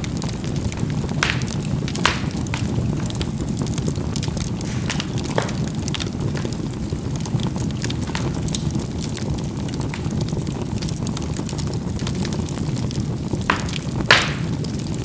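Charcoal burning in a fireplace: a steady low rush of flame with scattered sharp crackles and pops, a cluster of louder pops near the end.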